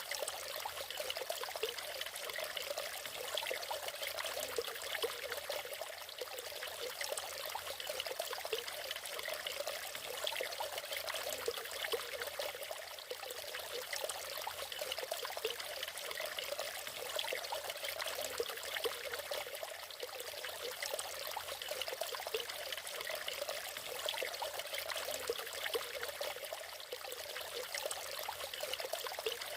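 Natural waterfall: water falling and splashing steadily, with no change in level.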